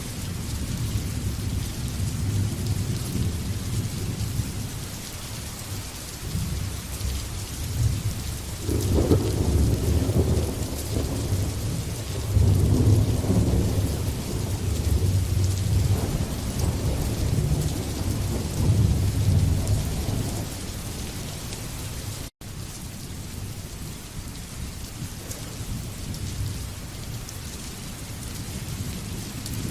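Steady rain falling, with a long roll of thunder that builds about a third of the way in, rumbles in several swells and fades out about two-thirds through. The sound cuts out for an instant shortly after.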